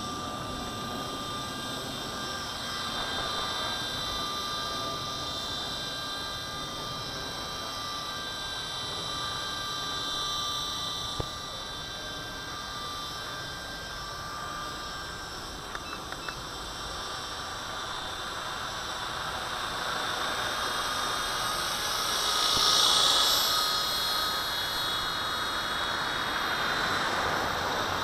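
V913 RC helicopter in flight, its electric motor and rotor making a steady high whine. It swells louder for a moment about two-thirds of the way through.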